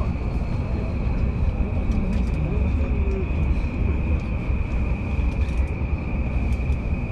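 Inside a moving electric commuter train: the steady low rumble of the car running on the rails, with a steady high whine above it and a faint electric motor whine sliding slowly in pitch.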